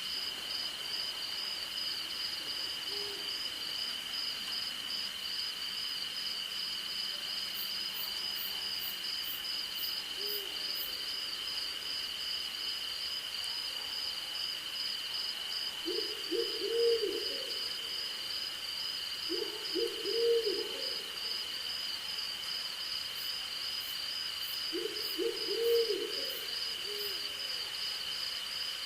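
An owl hooting: a few single low hoots, then three quick runs of hoots in the second half, the loudest sounds here. Underneath, crickets and other insects keep up a steady high trill and a pulsing one, with two brief runs of very high ticking.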